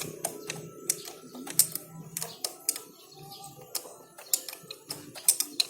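Irregular sharp clicks and light metallic taps from small engine parts and tools being handled during assembly of a two-stroke motorcycle engine's top end.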